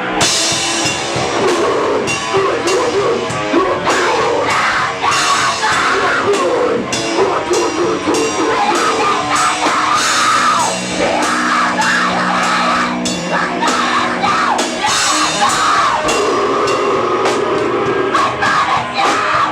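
Band playing loud rock music live, with a drum kit and frequent cymbal hits over sustained bass notes.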